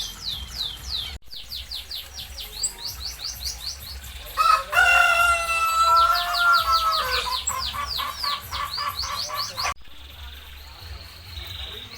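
Small birds chirping in quick, repeated high, falling notes, several a second. A rooster crows once, loudly, for about two and a half seconds from just before the middle.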